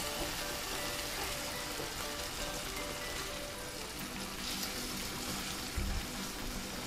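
Chicken sizzling in hot oil in a frying pan, a steady hiss, with background music playing softly over it. A low knock sounds about six seconds in.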